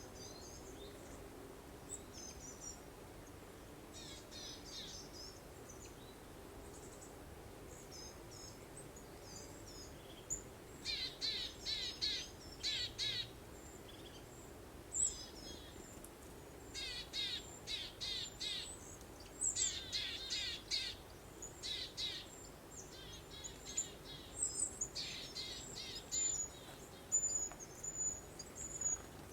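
Songbirds singing: bursts of quick, high chirps and trills, sparse at first and coming thick and fast from about a third of the way in, over a faint steady breeze-like hiss.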